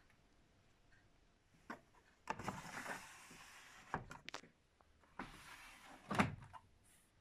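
Handling noises at the washing machine: a few clicks and knocks, two stretches of sliding or rustling, and a heavier thump a little after six seconds in, like a drawer or door being worked and shut.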